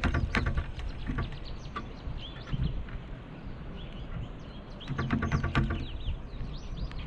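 Pileated woodpecker pecking at a suet feeder: a burst of rapid taps at the start and another about five seconds in. Small birds chirp briefly in between, over a steady low background rumble.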